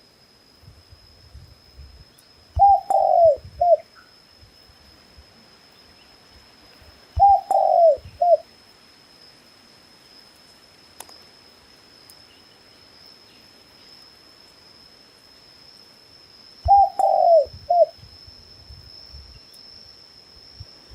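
A dove cooing: three separate phrases, each a short coo, a longer falling coo and a short coo, coming about four and a half seconds apart and then after a longer gap.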